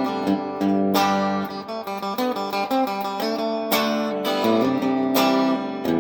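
Japanese-made Fender Telecaster electric guitar on its bridge pickup, played through a Vox AC15 amp with the twang Telecasters are known for. It plays a run of picked and strummed chords, each one struck and left ringing into the next.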